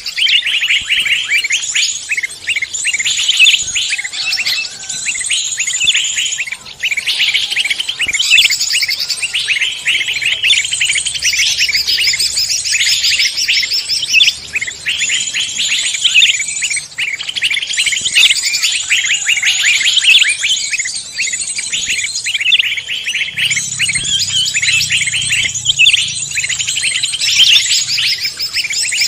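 Dense, busy chorus of many songbirds chirping, trilling and calling over one another without a break, with rapid repeated notes in a high register.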